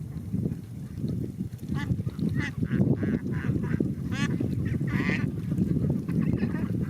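A flock of farmed ducks calling, with a run of loud quacks and honks from about two to five seconds in and another near the end, over a dense, steady low din.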